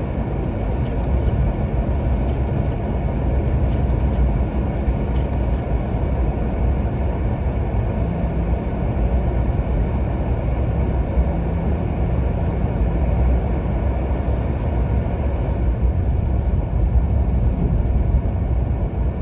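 Ford Maverick pickup driving on a snow-covered road on its stock Continental tires: steady tyre and road rumble with a low engine hum, with a faint tone rising slightly in the middle.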